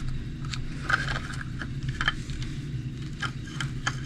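Light clicks, taps and scrapes of small parts and tools being handled on a work table during an RC truck repair, over a steady low hum.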